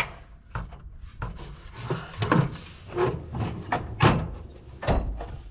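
A series of irregular knocks and clunks from hands working on a tractor's headlight and hood, the loudest about four seconds in.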